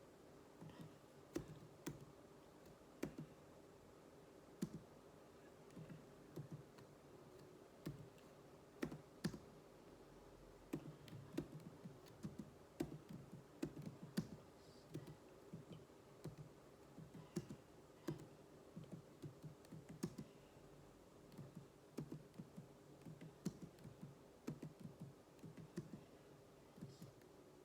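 Keys of a computer keyboard being typed on in irregular runs of keystrokes with short pauses, during a typing drill, over a faint steady hum.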